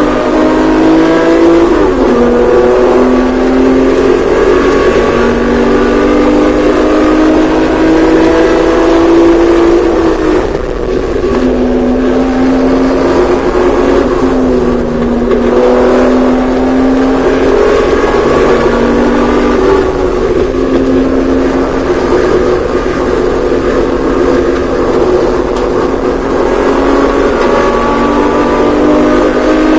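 Porsche 911SC's air-cooled 3.0-litre flat-six engine under hard acceleration on track, its note climbing steadily and dropping back several times at gear changes and lifts for corners.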